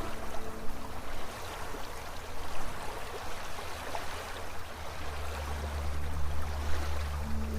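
Running-stream water ambience, a steady trickling wash, under soft ambient music. A low sustained music drone swells in about five seconds in.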